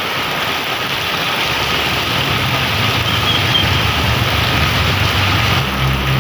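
Heavy rain falling steadily, with a motor vehicle's engine drawing near: a low hum starts about a second and a half in and grows louder near the end.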